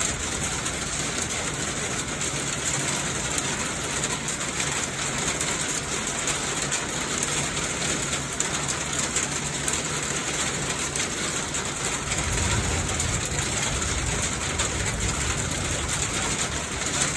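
Steady rain falling onto waterlogged ground and puddles: an even, unbroken hiss.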